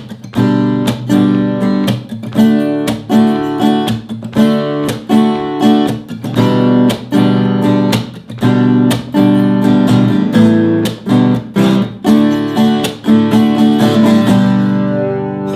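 Acoustic guitar strumming chords in the standard campfire strumming pattern, with steady, evenly spaced strokes. The last chord is left to ring near the end.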